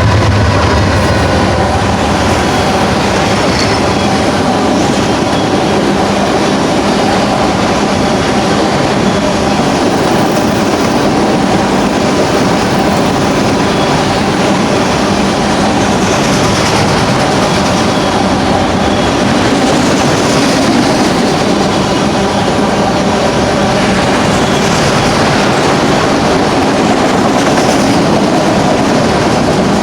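BNSF autorack freight cars rolling past: a steady rumble and clatter of steel wheels on rail, with faint, thin high tones of wheel squeal through it.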